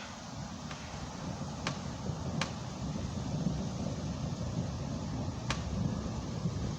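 Low, continuous rumble of an approaching thunderstorm, growing slightly louder, with a few sharp ticks.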